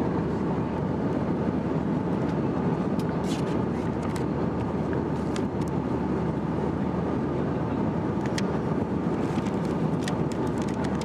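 Steady engine and airflow noise inside the cabin of an Airbus A321 with IAE V2500 engines, with scattered light clicks from the action camera rattling in its case.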